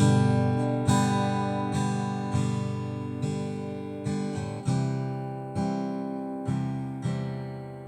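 Acoustic guitar strummed in single chord strokes, roughly one a second, each chord left to ring and fade; the last chord rings out near the end.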